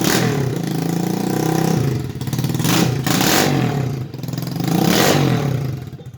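Honda TMX 155 single-cylinder four-stroke motorcycle engine revved up and down several times, easing back toward idle between blips.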